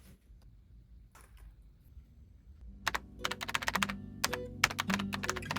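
Typing on a computer keyboard: a few scattered key clicks, then rapid, irregular typing starting about halfway in.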